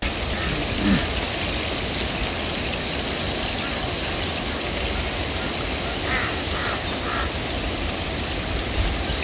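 Steady rushing water noise, with three short chirping calls about six seconds in.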